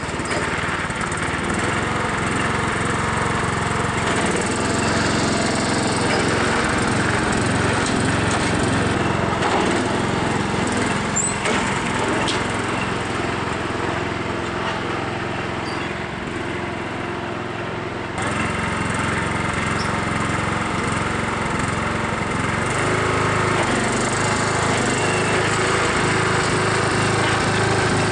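12-horsepower Craftsman lawn tractor engine running under load as the tractor is driven. It eases off slightly, then comes back abruptly louder about two-thirds of the way through.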